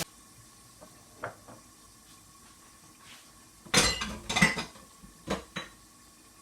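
Kitchen utensils and dishes clanking against a cooking pot: a faint tap early on, then a quick cluster of sharp clanks a little past the middle and two more shortly after.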